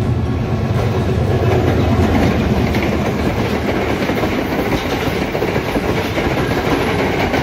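Diesel-hauled passenger train passing close by at speed. The locomotive's heavy low rumble leads, then the coaches rattle past with wheels clattering over the rail joints.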